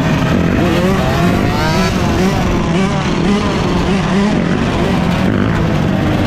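Several dirt bike engines running together and revving. The pitch rises repeatedly in the first couple of seconds as the throttles are opened.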